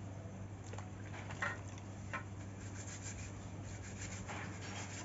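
Irregular hand rubbing and scraping strokes, as in scrubbing or scraping parts of a laptop power supply during cleaning, over a steady low hum.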